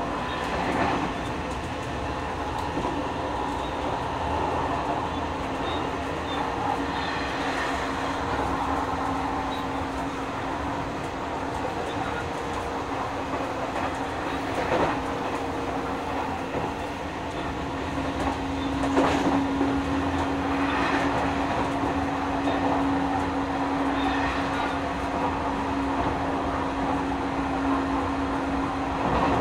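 Nishitetsu 9000 series electric train running, heard from inside a passenger car: a continuous rumble with a steady hum that grows louder about two-thirds of the way through. A few scattered clacks from the wheels come through over it.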